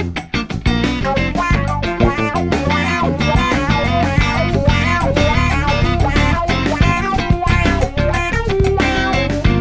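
Live funk band playing: guitar over electric bass and a drum kit with a steady beat, with saxophone and trumpet in the line-up.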